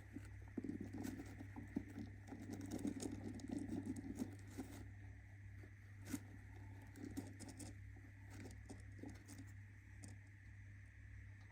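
Budgie scratching and shuffling about in its nest, a soft scrabbling rustle that is busiest for the first five seconds and then thins to a few scattered taps, over a steady low electrical hum.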